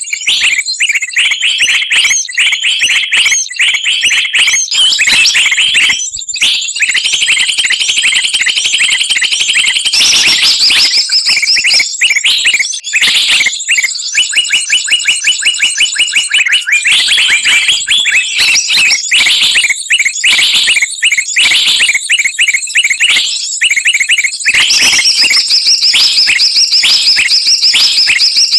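Bird-lure recording: a loud, dense mix of many small songbirds chirping, whistling and trilling at once, with a fast, even trill partway through.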